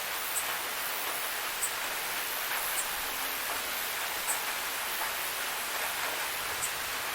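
Waterfall rushing with a steady, even hiss of falling water. Short high ticks stand out now and then.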